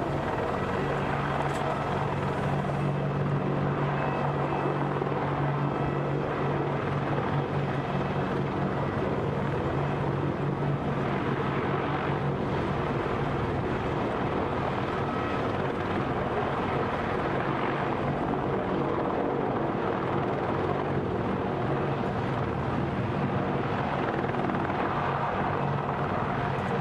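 Helicopter running steadily, a continuous rotor-and-engine drone with a low hum.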